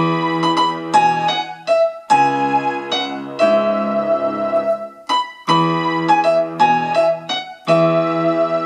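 Electronic keyboard on a piano-pad sound playing a slow hymn melody in E major over held chords, struck anew every second or two.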